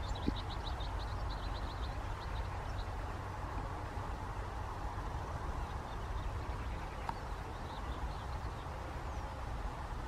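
Wild birds calling: a quick run of short, high repeated notes through the first three seconds, then only scattered faint notes, over a steady low rumble.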